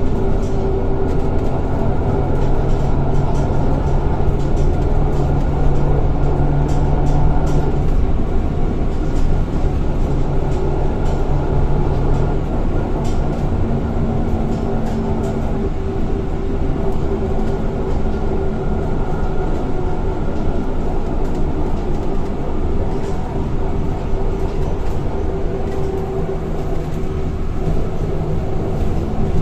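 Scania K230 bus heard from inside the saloon while under way: its engine and ZF automatic gearbox give a steady drone over road rumble. Its tones shift as it goes, with a low hum dropping out partway through and a higher whine coming and going.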